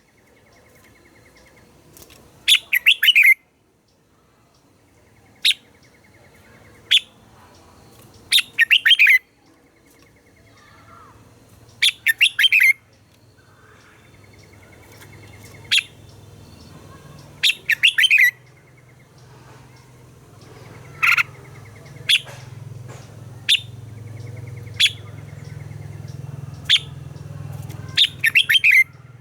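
Red-whiskered bulbul singing competitive song: short bubbly phrases every few seconds, with single sharp notes in between. A steady low hum builds underneath from about a third of the way in.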